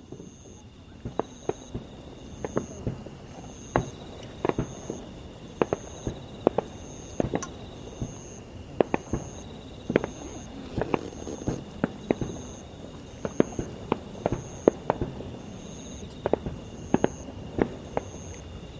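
Aerial fireworks shells bursting in a rapid, irregular string of sharp bangs, about one to two a second, over a continuous low rumble from the display.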